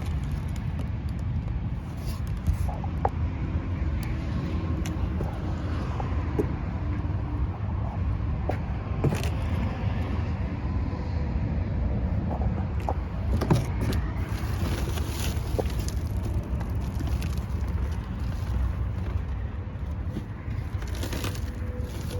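A motor vehicle running: a steady low rumble, with scattered short knocks and rattles, the loudest about nine and thirteen seconds in.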